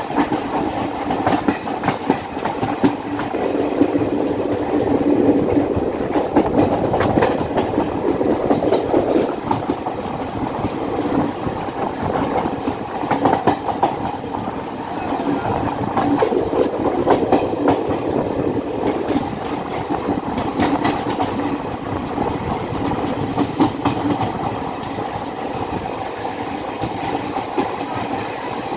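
Train running fast on the rails: a continuous rumble with steady wheel clickety-clack over the rail joints.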